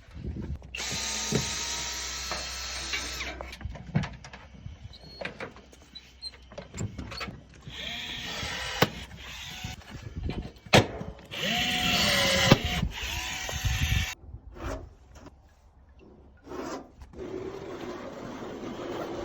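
Power drill running in two short bursts with a whining motor that speeds up and slows down, with knocks and clicks in between, during the fitting of standing-seam metal cladding.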